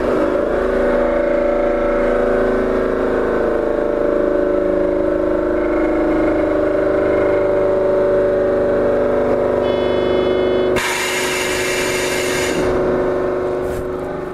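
Seibu 8500 series Leo Liner rubber-tyred people-mover standing at the platform, its onboard equipment giving a steady hum of several tones. About eleven seconds in, a loud hiss of air lasts under two seconds.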